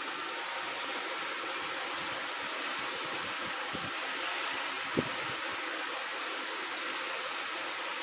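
Steady outdoor ambient hiss with faint, high, distant bird chirps, and a single sharp click about five seconds in.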